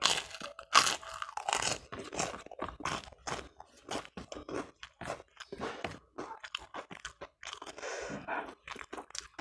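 Close-miked chewing of crunchy food, with many crisp, irregular crunches, loudest in the first couple of seconds after a bite.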